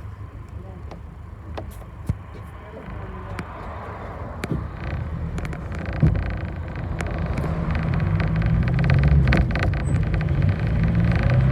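Bus engine and cabin noise heard from inside a moving bus, a low rumble that grows louder in the second half as the bus speeds up, with scattered rattles and clicks.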